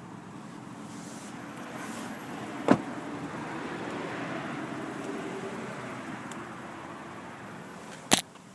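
Two heavy thuds about five seconds apart, typical of car doors being shut, over a steady low rushing noise.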